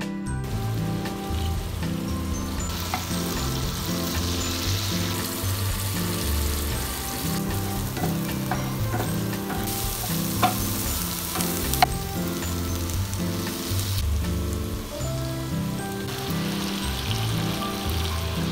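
Diced onions, bell peppers and tofu cubes sizzling as they fry in oil in a nonstick pan, stirred with a wooden spatula, with two sharp taps past the middle. Background music plays underneath.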